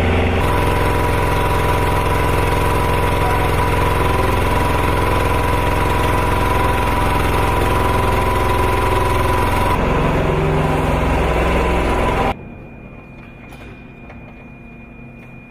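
Loud, steady engine or machinery noise with a high steady whine over a low hum. It cuts off abruptly about twelve seconds in.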